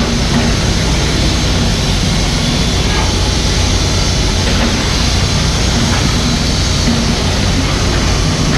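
Mini excavator's diesel engine running steadily under work.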